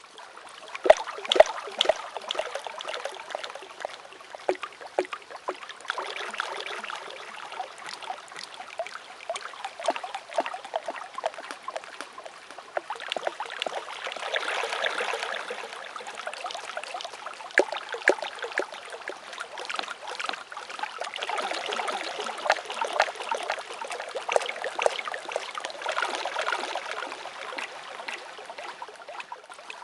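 Water trickling and splashing, with many small sharp clicks throughout, swelling and easing every few seconds.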